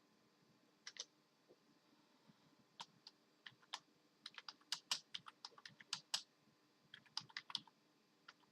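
Computer keyboard keys clicking irregularly, a few scattered presses and then quick uneven clusters, as a dog taps at the keys and types nonsense.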